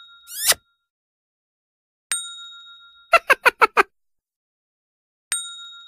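A bright bell ding rings out and fades, twice, clearly separating the clips of a sound-effect compilation. Between the dings come two short effects: a quick upward-sweeping glide near the start, and a rapid run of five short pitched chirps about three seconds in.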